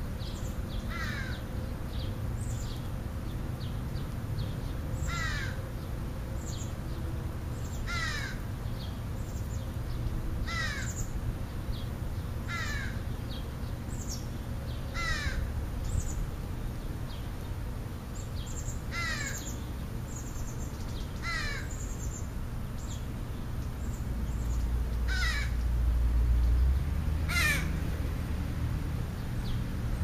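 A bird giving short, falling, caw-like calls over and over, about one every two to three seconds, over a steady low background hum. A low rumble swells for a few seconds near the end.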